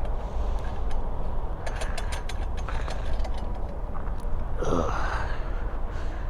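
A person lets out a short, sharp sigh about four and a half seconds in, over a steady low rumble.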